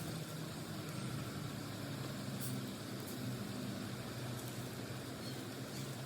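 Steady low engine-like rumble over a constant hiss, with no change in pitch.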